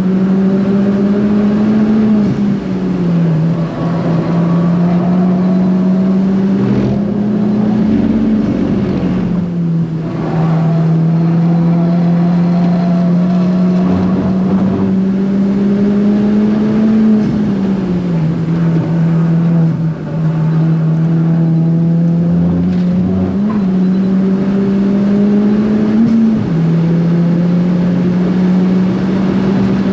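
Turbocharged Ford Fiesta ST engine heard from inside the cabin, pulling hard on track. The engine note holds fairly steady, then climbs and falls back sharply several times, roughly every six to nine seconds.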